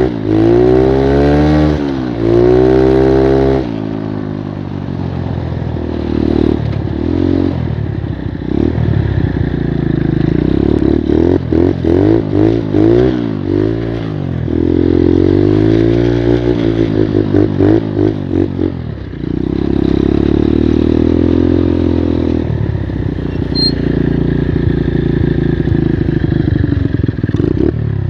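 Skyteam Monkey moped's 85cc single-cylinder four-stroke engine revving up and falling back again and again while riding, with stretches of quick, choppy throttle blips. The clutch slips badly.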